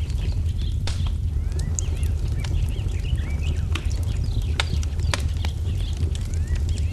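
Wood fire crackling with scattered sharp pops over a steady low rumble, with small birds chirping in short, quick calls throughout.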